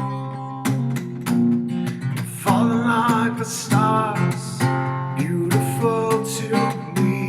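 Acoustic guitar strumming chords in a steady rhythm, with a wavering melody line held over it in places.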